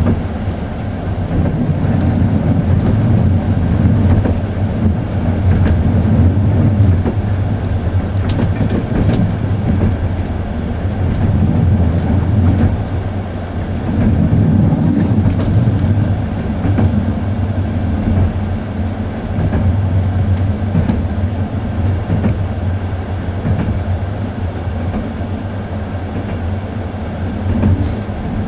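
Passenger train running along the track, heard from aboard: a steady low rumble of wheels on rails that swells and eases, with a few faint clicks.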